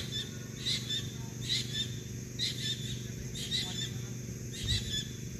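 A bird giving short chirping calls, repeated about once a second, over a faint low steady hum.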